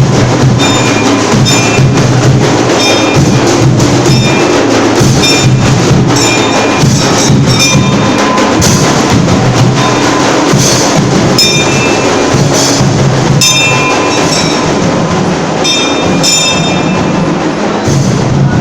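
Percussion music: steady loud drumming with repeated clusters of short, ringing high-pitched strikes.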